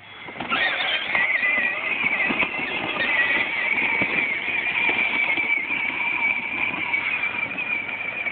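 Tractor running with a steady, slightly wavering high whine over irregular knocking and clatter.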